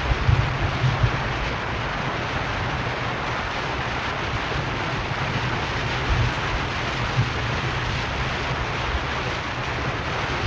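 Car driving along a road: steady road and tyre noise with low wind buffeting on the microphone that gusts a few times, most strongly just after the start and about six seconds in.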